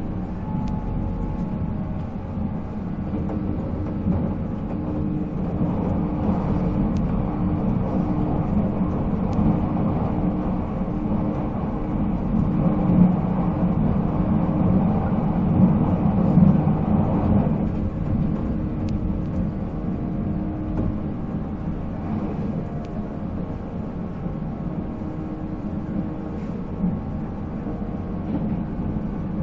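JNR 485-series electric train running at speed: the steady hum of its MT54 traction motors and gears over the rumble of wheels on rail. The sound swells toward the middle, then the upper hum eases off about two-thirds of the way through.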